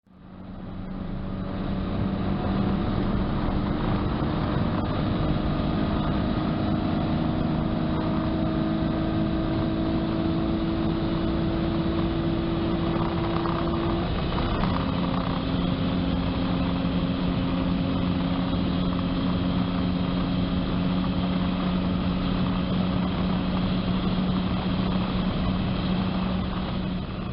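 Nissan 350Z's 3.5-litre V6, fitted with aftermarket headers and a Nismo cat-back exhaust, pulling at high rpm near top speed, heard from inside the cabin over a steady rush of noise. The engine note climbs slowly, drops with an upshift about halfway through, and then holds steady as the car keeps pulling.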